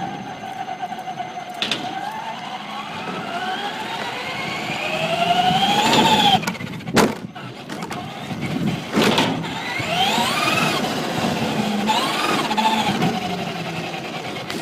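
Electric motor and gears of a Traxxas Slash radio-controlled truck whining, climbing in pitch for several seconds as it speeds up, then dropping. Sharp knocks come about seven and nine seconds in, followed by a few shorter rises and falls in pitch.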